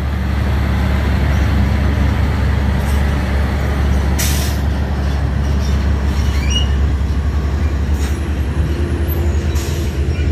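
Heavy diesel truck engine running, a deep steady drone, with a short hiss of air about four seconds in and another near the end, typical of truck air brakes.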